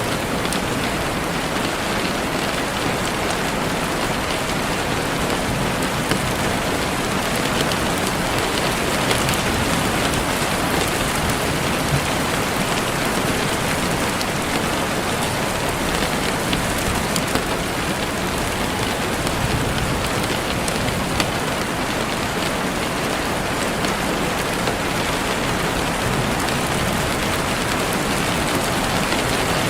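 Heavy rain falling steadily on leaves and the forest floor, a dense even hiss with scattered individual drops ticking through it.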